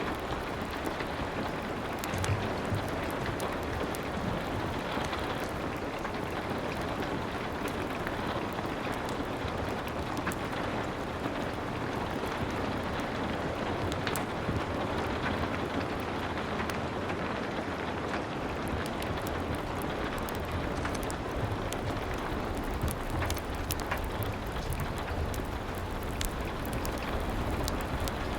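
Steady heavy rain, a dense even patter with a low rumble beneath it. Scattered sharp clicks run through it.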